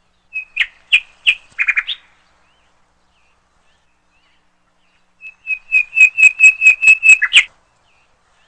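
Small bird chirping: a few short chirps, then, after a pause of about three seconds, a quick run of repeated chirps at about five a second that ends on a falling note.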